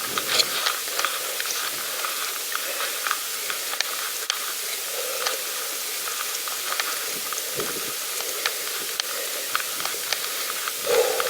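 Pedal bike being ridden: a steady hiss dotted with many small crackles and ticks.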